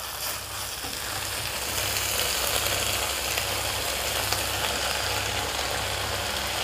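Spiced shredded chicken sizzling in a wok as it is stirred with a wooden spatula, the sauce cooked down almost dry. It is a steady frying hiss that grows a little louder about a second and a half in, over a steady low hum.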